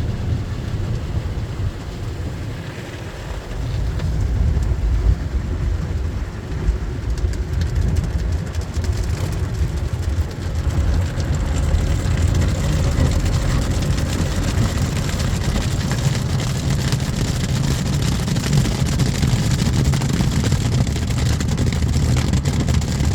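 Ryko SoftGloss Maxx 5 automatic car wash working over a car: a loud, steady wash of water spray and machinery noise that grows louder about four seconds in and stays at that level.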